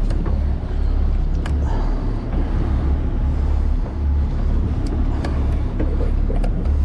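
Fishing boat's engine running, a steady low sound, with a few light clicks in it.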